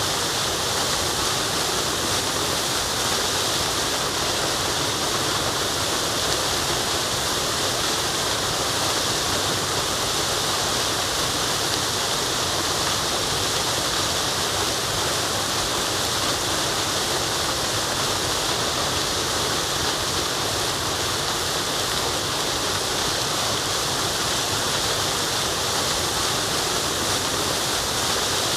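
Waterfall: falling water rushing in a steady, unbroken hiss, strongest in the higher tones.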